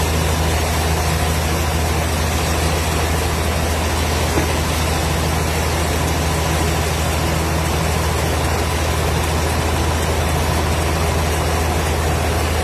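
Wood-cutting machine running steadily: a deep, even hum under a constant rushing noise, with no change in pitch or level.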